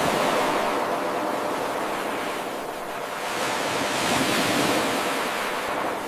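Ocean waves washing onto a shore: a steady rushing surf hiss that swells twice, easing in between.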